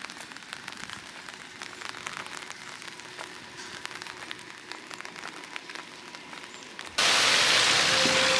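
Rain pattering, with many light, irregular drop ticks over a soft hiss. About seven seconds in, it gives way suddenly to a much louder, steady hiss.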